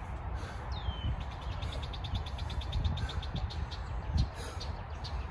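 A bird calling: a single high note sliding downward about a second in, then a rapid, even trill of high notes for about two seconds. Under it is a steady low rumble.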